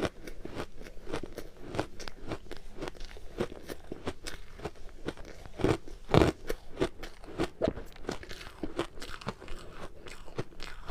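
Purple ice being bitten and chewed close to the microphone: a continuous run of sharp, irregular crunches, with the loudest bite about six seconds in.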